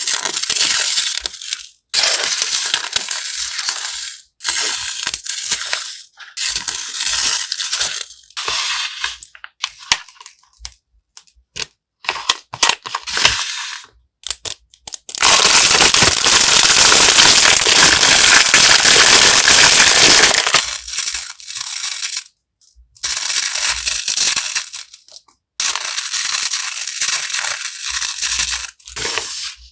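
Packaging crinkling and rustling in bursts as a stationery parcel is unwrapped by hand, with one louder unbroken stretch of about five seconds in the middle.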